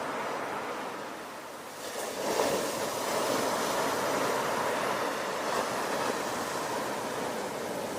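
Ocean surf: a steady wash of waves, with a wave breaking about two seconds in and its rush of foam carrying on.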